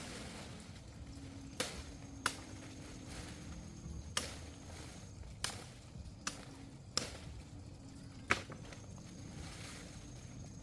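Seven sharp chopping or striking blows at uneven intervals, the loudest near the middle and about two-thirds of the way through.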